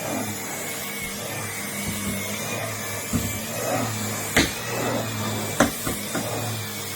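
Numatic Henry canister vacuum cleaner running steadily, a constant hum with a high, slightly wavering whine. A few sharp knocks come through about three seconds in and again near the end.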